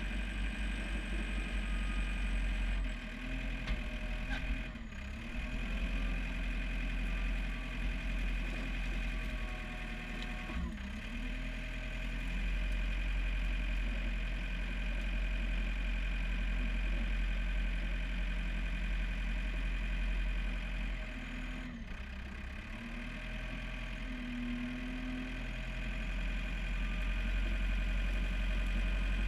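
John Deere 4720 compact tractor's diesel engine running steadily, its pitch shifting a little now and then.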